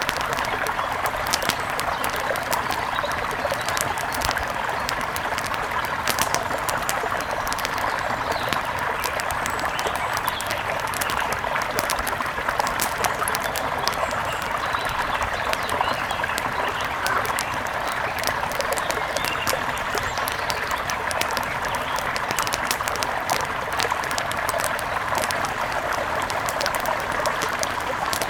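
Steady rush of a mountain river, with many small sharp crackles and pops of a wood fire scattered over it.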